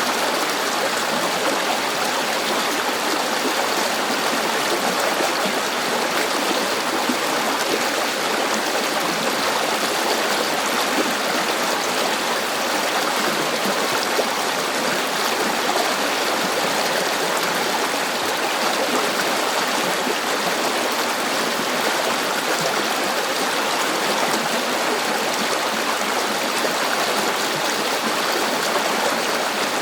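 River water flowing steadily, a continuous even rush of running water with no changes.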